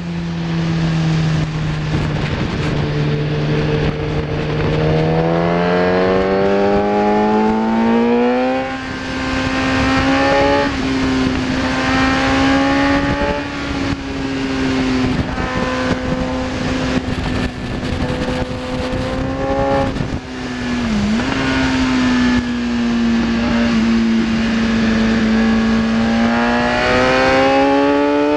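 Kawasaki ZX10R's inline-four engine running hard on track. The revs climb steadily through the first third, change up a gear, hold high with a quick dip past the middle, then climb again near the end, over a steady rush of wind noise.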